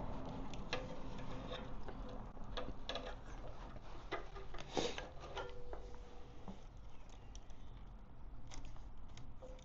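Rubber fuel hose being cut off close to a fuel filter's nipple: a scatter of irregular small clicks and snips, the sharpest about five seconds in, over a low steady hum.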